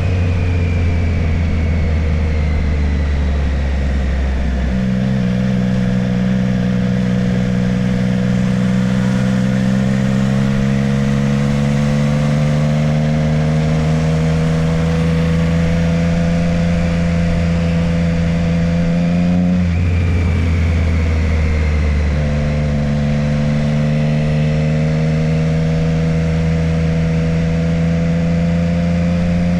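Motorcycle engine running under way, its pitch rising slowly under throttle. Twice, at the start and about twenty seconds in, the note falls away into a few seconds of low rumble before the engine pulls again.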